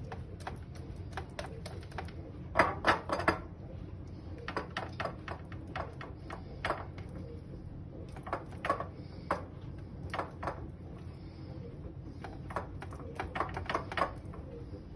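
Light clicks and taps at irregular intervals, some in quick clusters of three or four, over a low steady hum.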